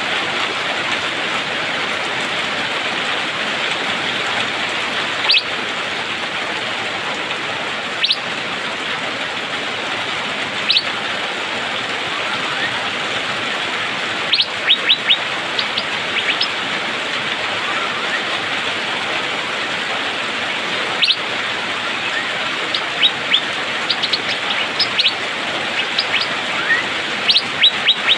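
Asian fairy-bluebird calling: short, sharp upswept notes, a few single ones spaced seconds apart, then quick runs of several, growing busier near the end. Under them runs the steady hiss of rain.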